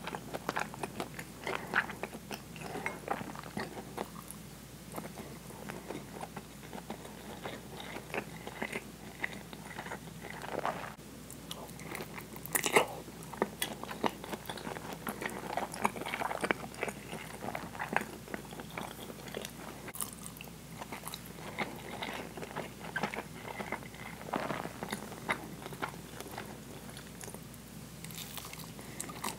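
Close-miked chewing and wet mouth sounds of someone eating steamed rice and sauce-braised deep-fried tofu, with frequent small clicks and a few sharper ones around the middle.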